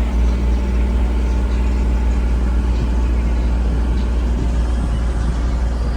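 A vehicle engine running with a loud, steady low rumble.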